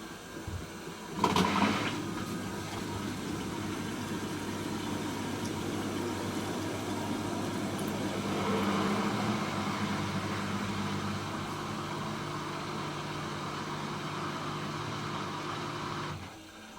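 Hoover H-Wash 300 Plus washing machine running during its rinse and spin programme. A steady motor hum with several fixed low tones starts with a sudden loud noise about a second in, swells with extra noise about halfway through, and cuts off abruptly near the end.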